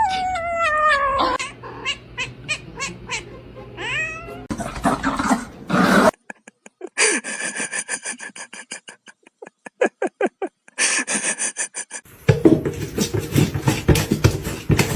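Domestic cat meowing: a long call falling in pitch at the start, then a shorter rising call about four seconds in, with scattered clicks and noise between.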